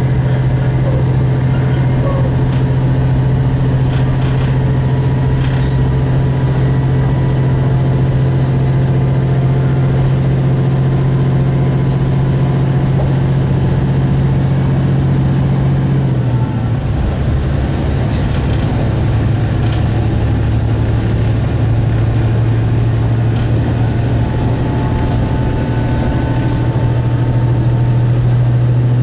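Diesel railcar's engine and running gear heard from inside the cabin: a steady, loud engine drone over track rumble. About halfway through, the engine note drops away, as when the driver eases off the throttle. It comes back up over the last several seconds.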